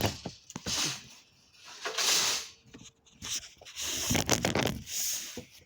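Rustling and rubbing handling noises in several short bursts, with a few scattered clicks.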